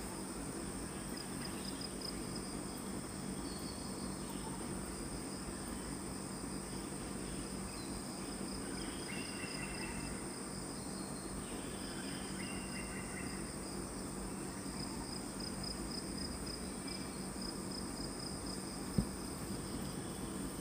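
Steady high-pitched drone of forest insects, crickets or cicadas, with a few short chirps around the middle and one sharp click near the end.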